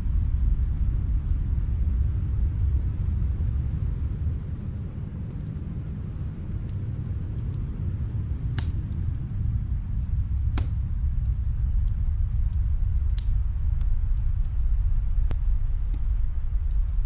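Fireplace crackling: a few sharp pops of burning wood over a steady low rumble that eases off for a few seconds in the middle.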